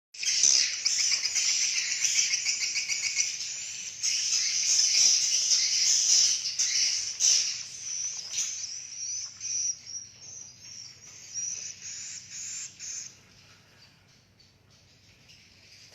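Swiftlets twittering: a dense, high chatter of rapid chirps and trills, loud at first, then thinning out and fading away over the last few seconds.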